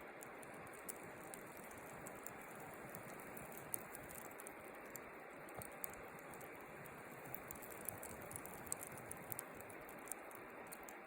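Wood fire crackling, with scattered sharp pops over a steady low hiss.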